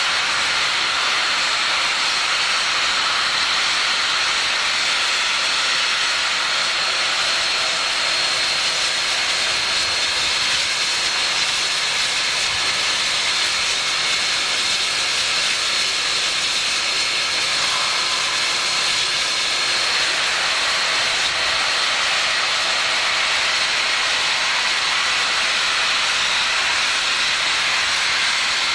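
Union Pacific 3985, a 4-6-6-4 Challenger steam locomotive, hissing steam in a steady, unbroken rush.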